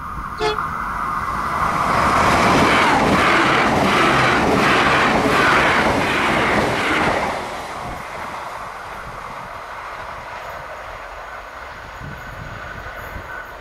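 Irish Rail 22000 class six-car diesel multiple unit passing close by: its engines and wheels swell up, with wheels beating over the rail joints about twice a second at the loudest, then the sound fades as the train runs away. A sharp click about half a second in.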